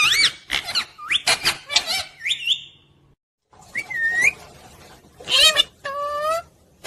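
Pet parrot calling: a quick run of whistled, gliding chirps, a short break, then a few longer calls.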